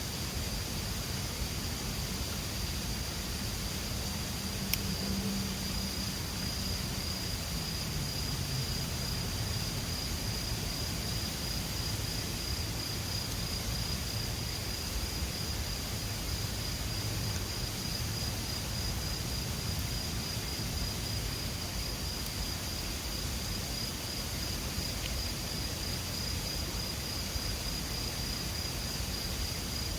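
An insect trilling steadily in one unbroken high note, over the even rush of a mountain river. A single faint click sounds about five seconds in.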